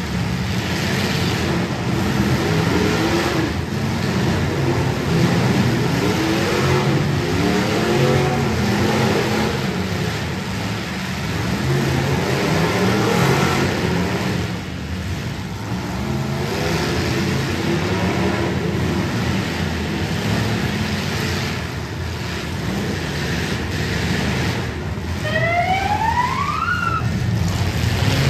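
Several demolition derby cars' engines revving and running hard, their pitch rising and falling in waves. Near the end a whine climbs steadily in pitch for about two seconds.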